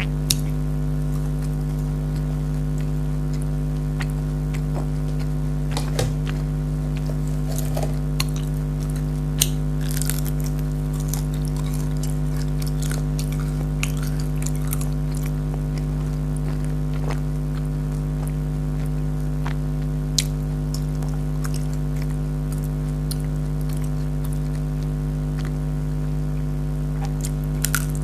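Jalebi being bitten and chewed close to the microphone: scattered short crunches and clicks over a loud, steady machine hum.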